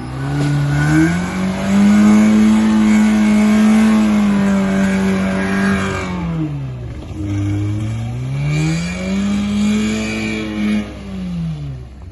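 Off-road 4x4 engine revved hard twice: each time the pitch climbs, holds at high revs for a few seconds, then drops back, the second time about halfway through.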